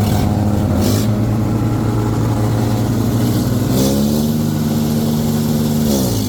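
Tractor diesel engine running loud and steady, revved up about four seconds in, held, then dropping back near the end.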